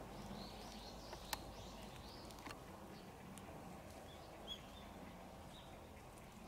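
Faint outdoor ambience with small birds chirping in the distance, short high chirps scattered through, and a few sharp clicks, the loudest just over a second in.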